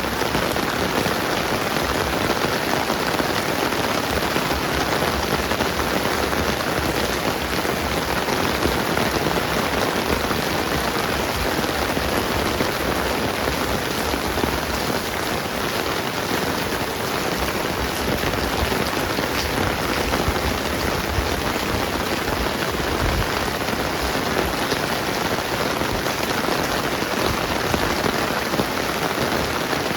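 Steady rain falling: an even, unbroken hiss of rain on the ground and surfaces.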